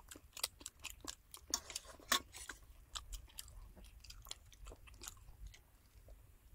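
People chewing and biting into fried catfish: a run of small crisp crunches and mouth clicks, thick for the first three seconds and then sparser.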